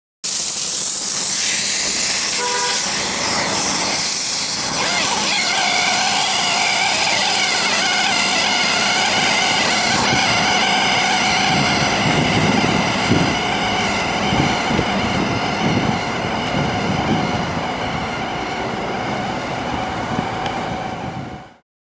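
Reassembled pneumatic vane air motor of a gas line reamer running on compressed air: a steady air hiss with a high multi-tone whine, starting abruptly and cutting off suddenly near the end.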